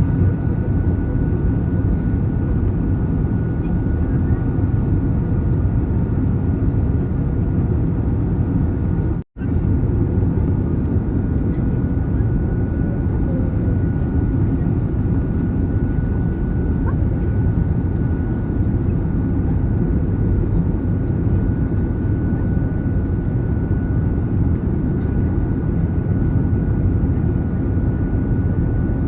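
Steady rumble of a jet airliner's engines and airflow heard inside the passenger cabin, with a thin steady whine over it. It cuts out for a moment about nine seconds in, then resumes unchanged.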